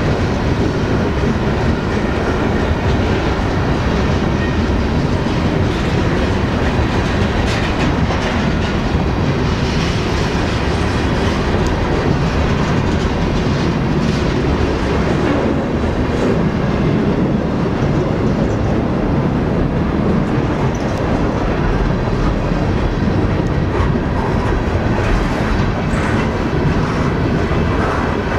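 Freight cars of a Susquehanna Railway (NYSW) train rolling past close by: a steady rumble of steel wheels on rail, with scattered clatter from the wheels.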